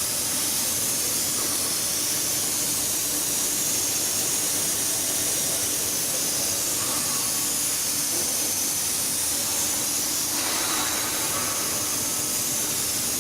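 Saw-blade cooling spray nozzle hissing steadily, with a faint steady hum from the machine underneath. A little past two-thirds of the way through, the hiss grows somewhat fuller.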